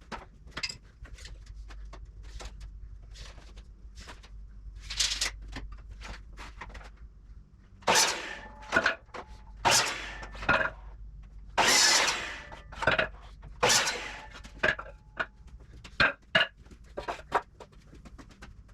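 Hammer driving nails into 2x4 lumber: a run of irregular knocks, the heaviest blows in the middle, over a low steady hum.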